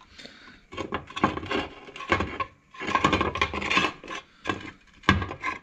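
Hand work on a gearbox's metal bottom cover: irregular rubbing and scraping strokes mixed with short knocks and clinks of parts being handled.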